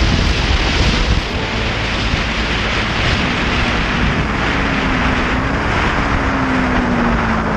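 Motorcycle riding at speed, with heavy wind rushing over the microphone; a faint engine note sinks slightly in pitch in the second half.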